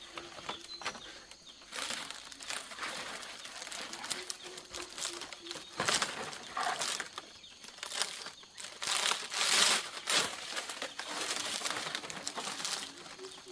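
Irregular rustling and crinkling, loudest about six seconds in and again around nine to ten seconds in.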